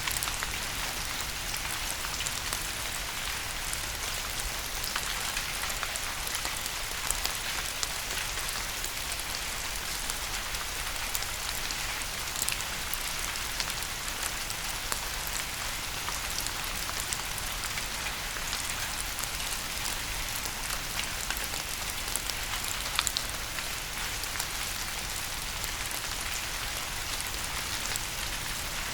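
Steady rain falling on a surface, a continuous hiss with many individual drops ticking through it and a few louder drip strikes now and then.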